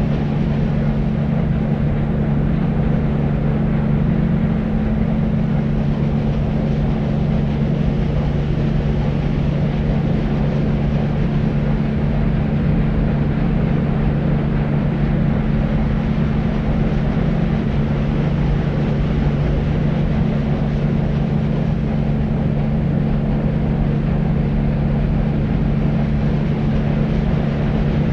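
Steady deep, low-pitched noise, dull and rumbly with little hiss, unchanging throughout, with a low hum running under it.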